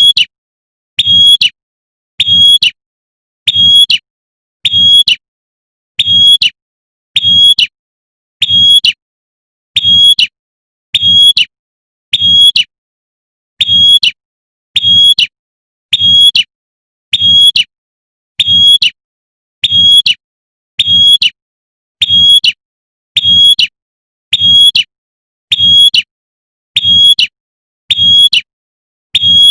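Female prinia (prenjak) giving its sharp, high 'tembakan' call, a female calling for a male, repeated evenly about once every 1.2 seconds.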